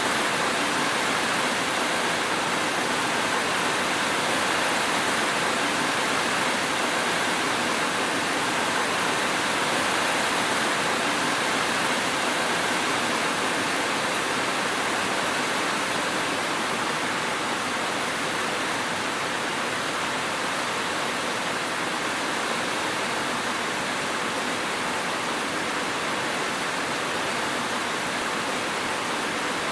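Steady, even rain noise with no distinct drops or thunder.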